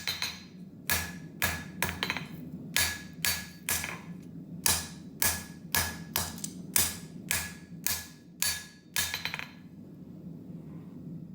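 Hand hammer striking hot wootz steel during forging, about two blows a second, some of them ringing. The blows stop about nine and a half seconds in, leaving a steady low hum.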